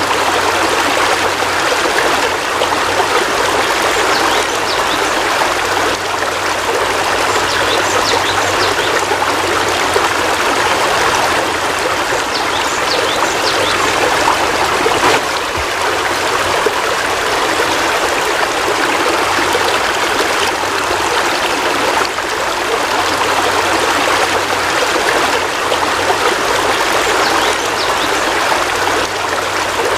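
Heavy rain falling: a steady, even hiss with scattered sharper drop sounds.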